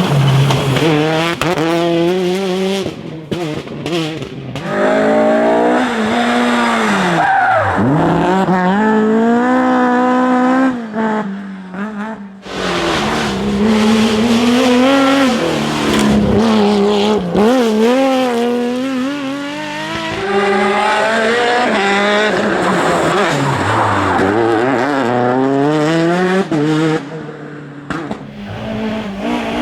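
Rally cars running a special stage one after another: engines revving hard, climbing in pitch through the gears and dropping sharply when the driver lifts off or brakes, with some tyre squeal. The sound drops away briefly a few times between passes.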